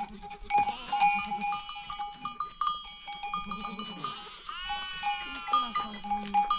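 Goats and sheep bleating among the ringing of livestock bells, with one long bleat about two-thirds of the way through.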